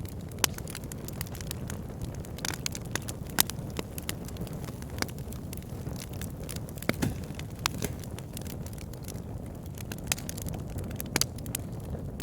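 Wood fire burning in a fireplace: a steady low rumble of flames with frequent sharp, irregular pops and crackles from the burning logs.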